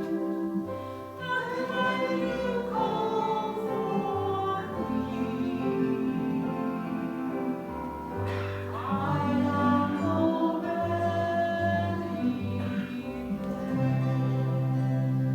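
Voices singing a slow church hymn in unison over sustained instrumental accompaniment, with long held notes and a steady bass.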